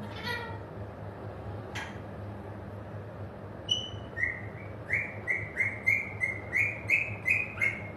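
Pet parrot chirping: a brief call, then from about four seconds in a quick run of short, clear whistled chirps, about three a second.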